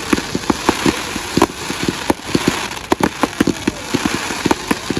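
Fireworks going off in a dense barrage: many sharp bangs and crackles at irregular intervals over a steady hiss.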